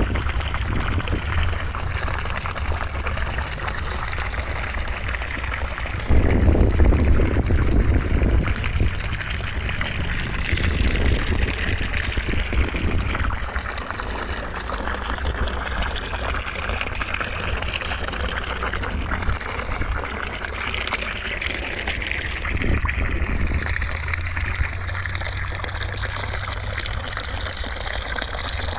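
Steady rushing white noise with slowly sweeping bands in its hiss and a louder low rumble swelling in about six seconds in.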